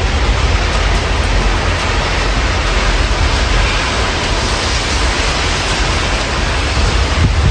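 Steady rain heard through an open window, an even hiss with a low rumble underneath.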